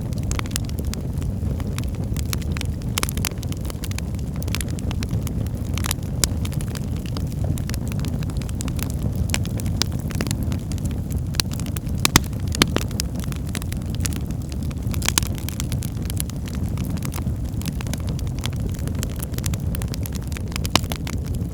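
Wood fire burning in a fireplace: a steady low rumble of flames with frequent sharp crackles and pops throughout, a cluster of louder pops about halfway through.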